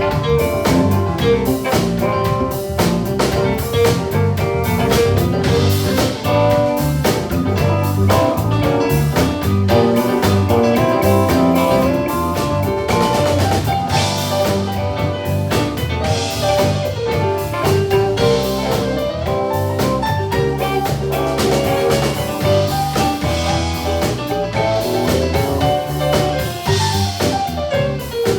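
Live band playing an instrumental stretch of a blues tune, with the drum kit keeping a steady beat and cymbals washing over the top.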